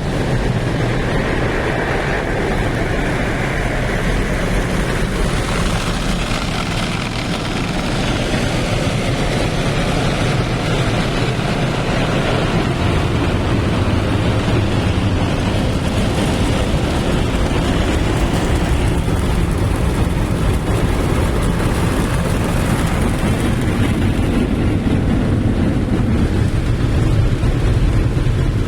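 Car wash machinery running: a loud, steady rush of spraying water and machine noise, its character shifting slowly.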